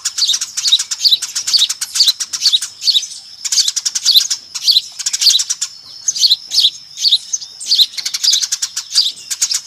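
A flock of Eurasian tree sparrows chirping noisily, with many rapid, overlapping chirps and no pause. This is a sparrow lure call, played to attract wild sparrows.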